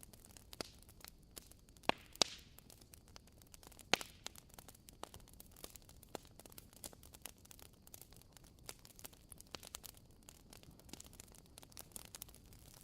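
Fire crackling: irregular sharp pops and snaps over a faint steady hiss, with the loudest pops about two and four seconds in.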